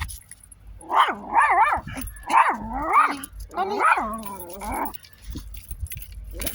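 A dog vocalizing in a run of about six short pitched yelps and whines, each bending up and down in pitch.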